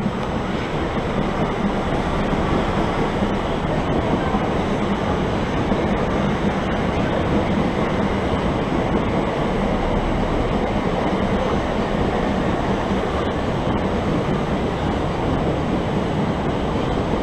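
Southeastern electric multiple-unit train running past along the platform, a steady noise of wheels on rails and traction equipment.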